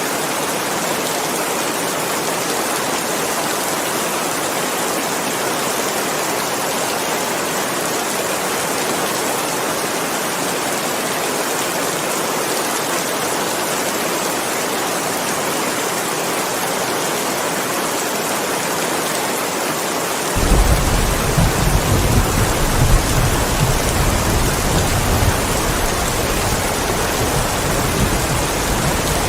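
Steady rain falling hard. About two-thirds of the way through, a deep rumble of thunder sets in suddenly and keeps rolling.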